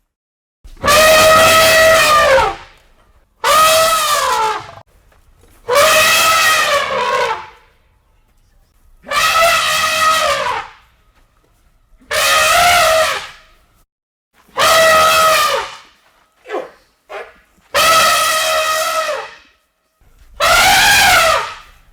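Elephant trumpeting: a series of about eight loud trumpet calls, each lasting one to two seconds and arching up then down in pitch, with two short, clipped calls in the second half.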